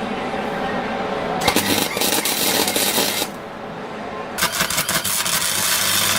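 Two bursts of MIG welding, each a couple of seconds long: a crackling, sizzling arc over the steady hum of the welder, with a short pause between them.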